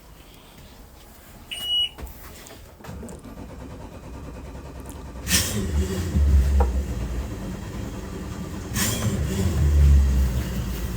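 Twin Mercury outboard motors being started one after the other: a short electronic beep about two seconds in, the first engine cranking and catching about five seconds in, and the second about nine seconds in. Both then settle into a steady low idle.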